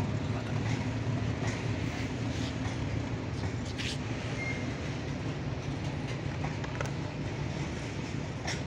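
Freight train's covered wagons rolling past on the rails: a steady low rumble, with wheels clicking over rail joints roughly once a second.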